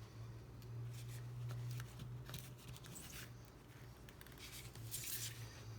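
Faint scrapes and light clicks of small tools and parts being handled during a tablet repair, over a steady low hum. A short rustling scrape about five seconds in is the loudest sound.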